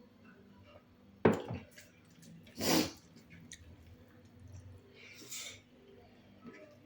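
Close-miked eating sounds of a meal: a sharp knock about a second in, then a short hissing burst a second later and another softer one near the end, with faint wet mouth noises between.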